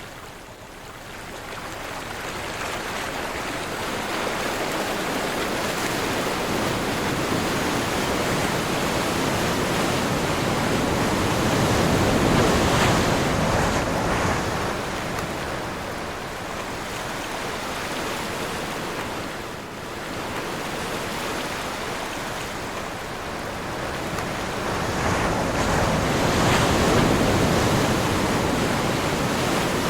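Ocean surf breaking and washing ashore in strong wind, a continuous rushing noise that swells and fades. The waves build to two louder peaks, about halfway through and again near the end.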